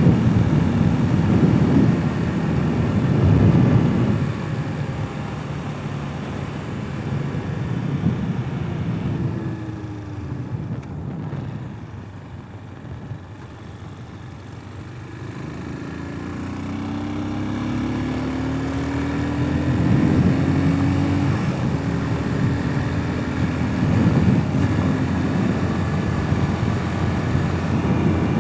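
Hawk 250 enduro motorcycle's single-cylinder engine running on the road, heard from the rider's position. It eases off and quiets about ten to fourteen seconds in, then its pitch climbs as it accelerates again.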